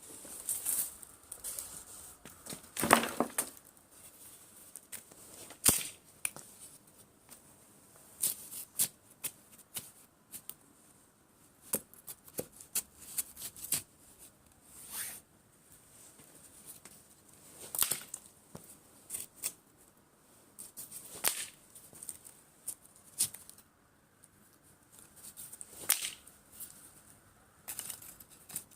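Irregular sharp snaps, clicks and rustling of dry wood and kindling being handled while a fire is laid, with a longer, louder crackling snap about three seconds in.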